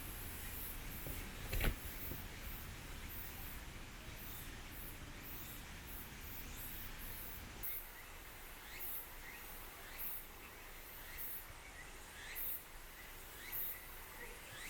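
Outdoor ambience: a high insect-like pulsing repeats steadily, and in the second half birds give short rising chirps. A single sharp knock comes under two seconds in, and a low rumble stops about halfway through.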